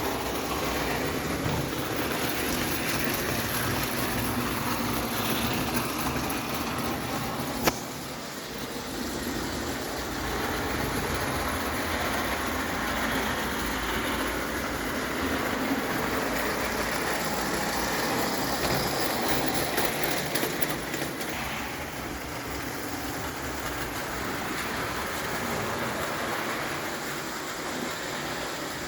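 Märklin live-steam 0 gauge tank engine running on tinplate track, a steady noisy run, with one sharp click about eight seconds in.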